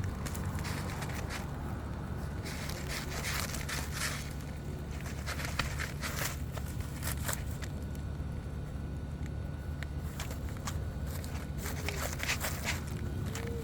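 Asphalt roof shingles crackling and scraping as they are pried up and handled. Irregular crackles and scrapes come over a steady low rumble.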